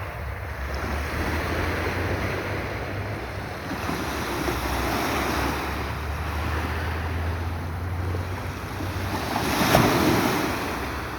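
Sea waves washing on the shore, with wind rumbling on the microphone; one louder rush of surf near the end.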